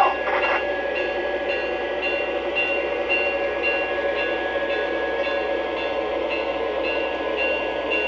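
Model train running on the layout, a steady mechanical rumble with a high tone repeating about twice a second.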